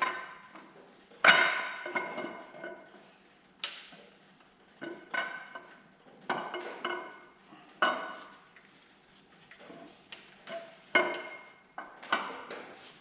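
Metal parts clinking against each other, a dozen or so separate strikes at irregular intervals, each ringing briefly.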